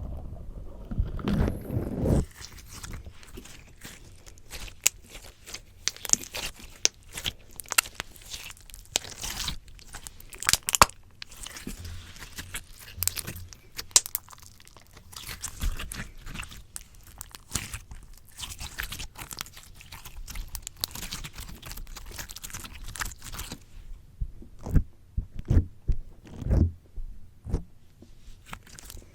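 Slime squished and pulled against a microphone, making dense, irregular sticky pops and crackles that thin out to a few separate low thumps near the end.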